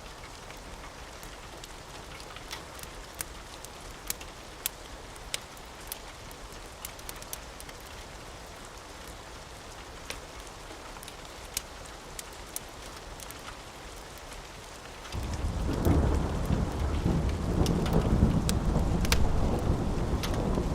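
Steady rain with scattered sharp clicks. About three-quarters of the way through, a loud low rumble of thunder sets in suddenly and keeps rolling.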